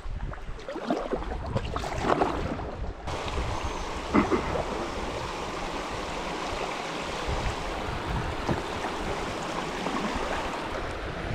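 Creek water rushing steadily, as at a beaver dam, starting about three seconds in. Before that and once after, a few short knocks, like a paddle or hull bumping.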